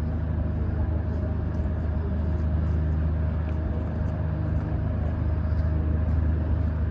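Steady low drone of a vehicle's motor heard from inside the moving vehicle, with a constant hum and a faint higher whine above it.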